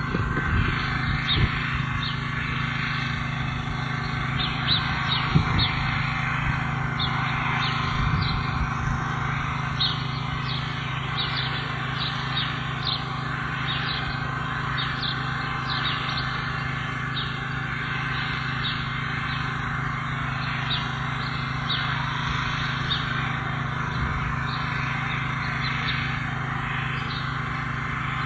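Birds chirping: many short, high, down-slurred calls, repeated irregularly, over a steady low hum.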